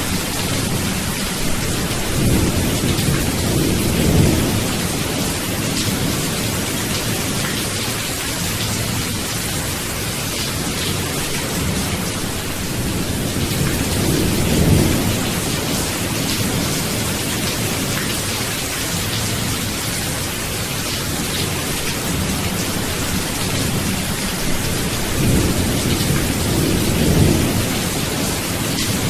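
Steady rain hissing, with low rolls of thunder swelling three times: a few seconds in, about halfway, and near the end.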